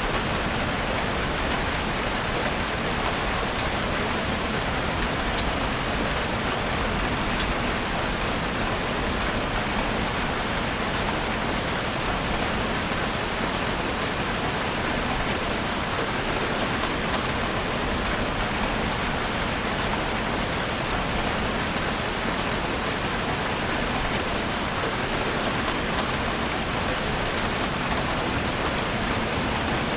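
Heavy rain drumming steadily on a roof, with scattered sharper drop hits.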